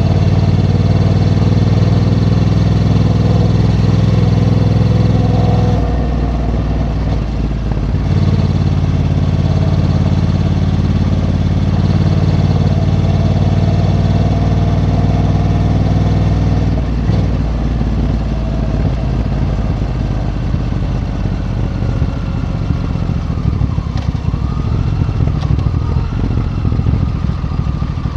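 Honda Africa Twin's parallel-twin engine pulling under throttle, easing off about six seconds in, then pulling again. After about seventeen seconds it settles to a lower, rougher running.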